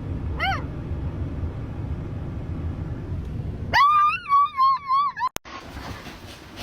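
A dog's high, wavering whine lasting about a second and a half, preceded by a short falling yelp-like note, over a low rumbling background; a click and an abrupt cut follow.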